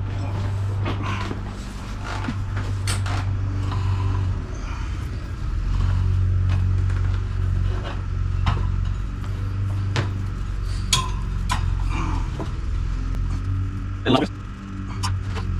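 Scattered clicks and knocks of hands and tools working on a motorcycle wheel rim and tyre as an inner tube is fitted, over a steady low hum that comes and goes.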